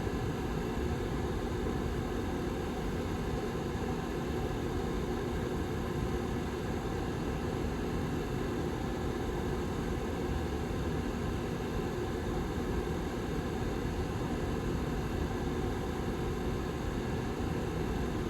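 Rear fan of a Lasko 755320 tower heater running steadily: an even rush of air with a faint steady hum underneath.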